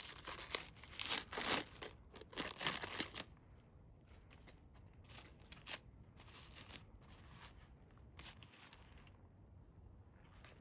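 Crinkly wrapping being torn open and crumpled in several quick rustling bursts over the first three seconds, then only a few faint ticks.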